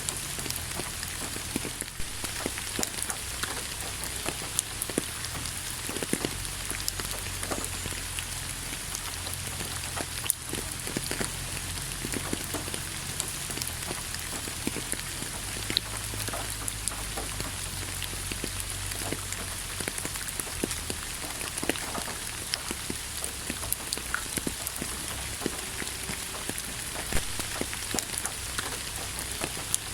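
Steady rain falling: an even hiss with many individual drops striking sharply close by.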